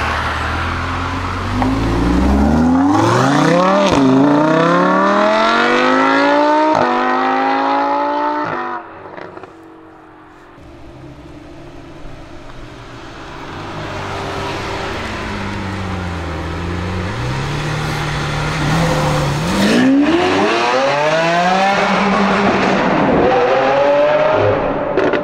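Lamborghini Huracán's naturally aspirated V10 accelerating hard, its revs climbing and dropping at two quick upshifts about four and seven seconds in. Then a Lamborghini Aventador's V12 runs at low revs before accelerating at full throttle about twenty seconds in, with another upshift a few seconds later.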